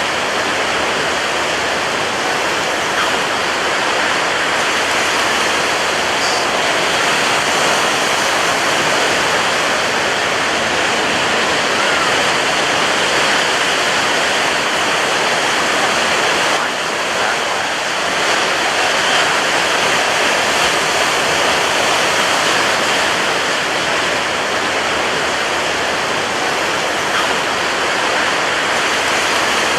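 Ocean surf breaking on a beach: a steady, unbroken rush of wave noise with no single crash standing out.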